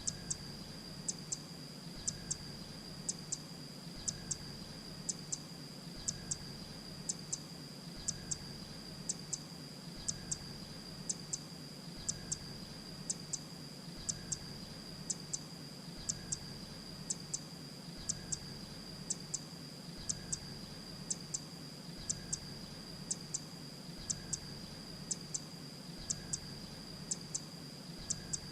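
Grey-breasted prinia calling: pairs of short, high, sharp notes repeated evenly about once a second, over a steady high-pitched hum.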